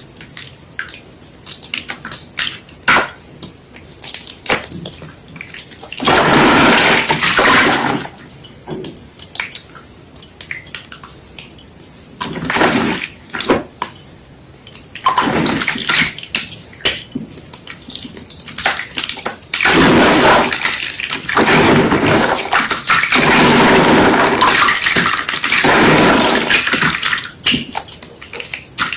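White gym chalk being crushed with water: scattered sharp crunches and clicks, broken by longer, loud, wet crumbling stretches. One comes about six seconds in, shorter ones follow, and a long one runs from about twenty seconds until shortly before the end.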